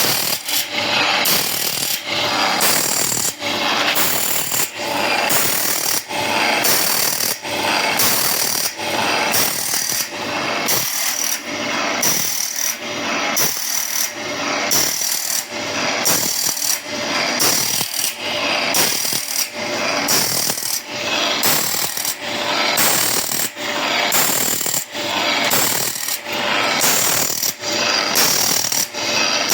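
ESA automatic band saw blade sharpener running: the grinding wheel dips into each tooth in turn as the blade is stepped along, giving an even grinding rhythm of a little more than one stroke a second. The wheel is taking too much material off the tooth face on this run.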